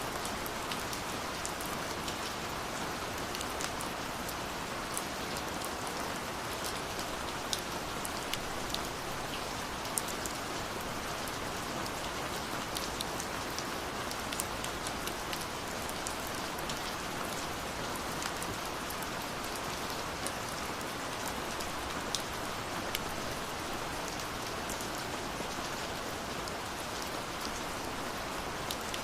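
Steady rushing of a waterfall, overlaid with scattered sharp pops and crackles from a wood fire.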